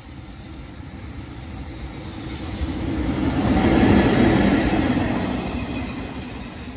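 An EF65 electric locomotive hauling a single ヨ8000-type brake van passes close by. Its wheels rumble on the rails, growing louder to a peak about four seconds in and then fading as the van goes away.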